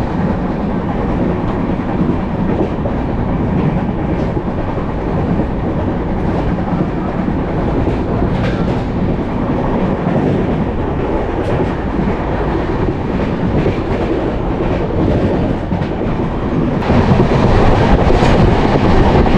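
Moving passenger train heard from on board: a steady rumble of the coach with wheels clattering over the rail joints, growing louder near the end.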